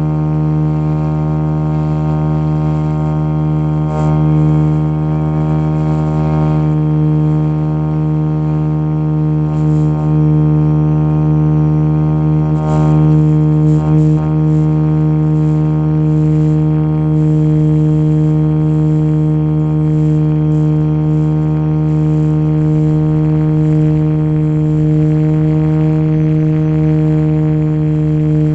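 Motion RC Jet Ranger model helicopter running at a constant rotor speed, a steady low-pitched hum from its motor and rotor that holds the same pitch throughout.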